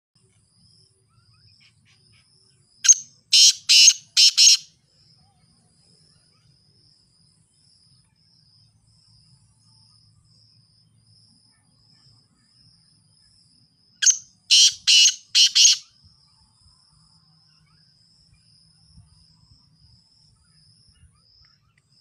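A caged bird gives two bursts of four loud, harsh calls, about eleven seconds apart. Under them runs a faint, steady high-pitched pulsing trill.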